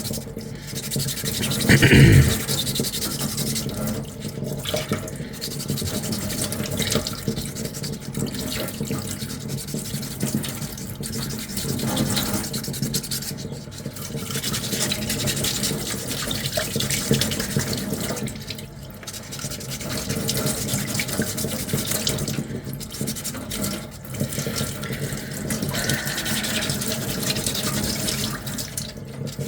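Coarse sandpaper rubbed back and forth by hand over a small 3D-printed plastic armour piece, rapid scrubbing strokes with brief pauses every few seconds. A thump about two seconds in.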